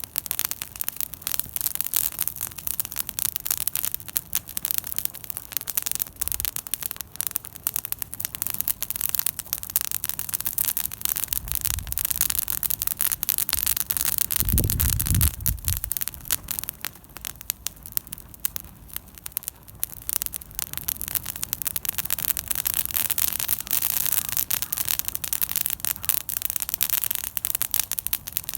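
Wood campfire crackling, with a dense, irregular stream of sharp snaps and pops. A brief low rumble comes about halfway through.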